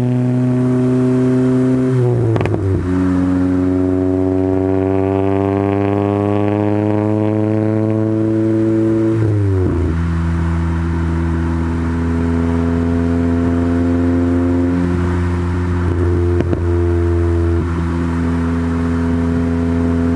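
Integra GSR's four-cylinder DOHC VTEC engine, fitted with Integra Type R cams and exhaust, pulling gently through the gears. The engine note climbs slowly, drops at upshifts about two and a half and nine and a half seconds in, then holds steady at a cruising pitch.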